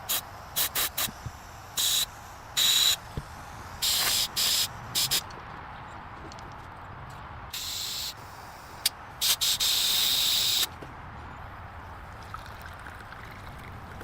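Short bursts of hissing noise that stop and start irregularly, most under half a second, with a longer burst of about a second three-quarters of the way through.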